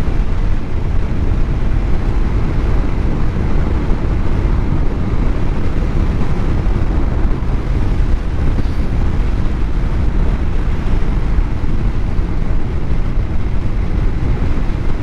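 Steady wind rush and road rumble on a helmet-mounted camera while riding a Honda motorcycle, loud and unchanging.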